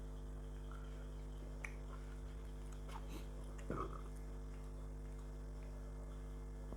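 Quiet eating sounds: faint chewing and small clicks, with one brief louder sound about four seconds in, over a steady electrical hum.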